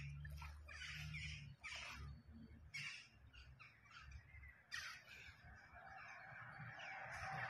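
Faint harsh bird calls, a string of short calls at uneven intervals, over a low rumble.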